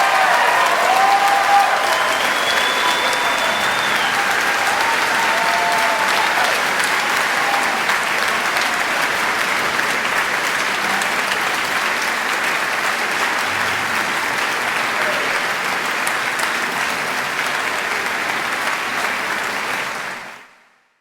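Audience applause in a concert hall, steady and dense, cutting off abruptly near the end.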